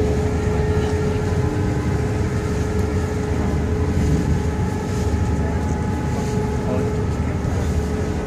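Sightseeing boat's engine running steadily: a low rumble with a constant hum over it.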